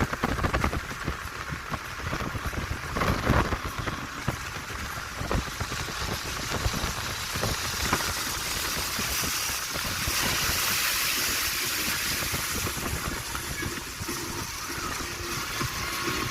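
Steady rushing hiss of wind and rain, with a low rumble of wind buffeting the microphone and a few knocks in the first few seconds.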